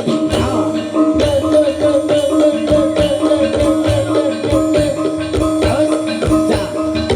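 Jaranan dangdut music: drums beating a steady rhythm under a held, wavering melody line.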